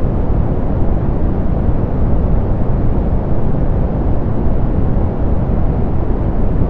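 Steady, softened pink noise: an even, unchanging hiss weighted toward the low end, with little treble.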